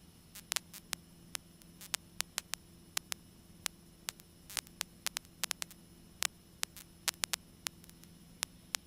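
Crackling static on the cockpit radio/intercom audio feed: irregular sharp clicks, a few per second, over a faint steady electrical hum.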